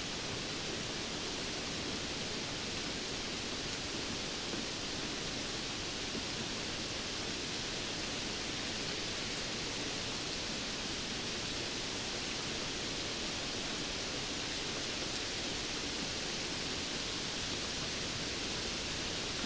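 Steady rain falling, a constant even hiss with no single drops, thunder or breaks standing out.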